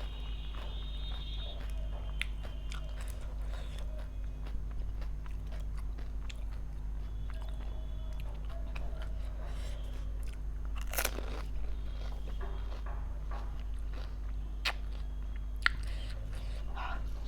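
Crisp golgappa (pani puri) shells crunching as they are bitten and chewed, in scattered crunches with the loudest about eleven seconds in, over a steady low hum.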